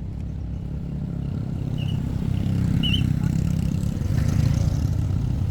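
Excavator engine running with a deep rumble that grows steadily louder.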